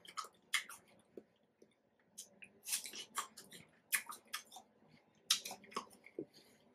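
Close-miked biting and chewing of a hard Asian pear: irregular crisp crunches, several close together at times.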